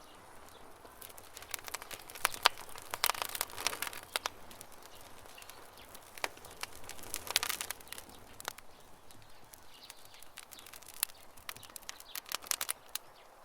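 Campfire crackling: irregular sharp pops and snaps that come in clusters, about two to four seconds in, around seven seconds in, and again near the end.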